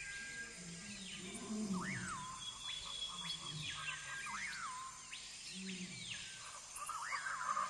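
Wild birds calling in a natural soundscape: a sharp rising-and-falling call repeats about every two seconds among other arching calls, with low animal calls underneath.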